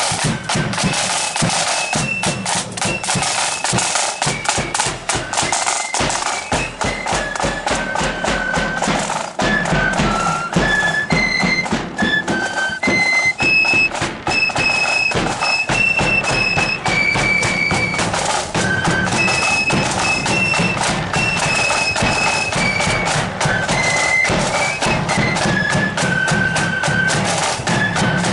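Marching flute band playing a tune: flutes carry a high melody in steady, stepping notes over continuous drumming.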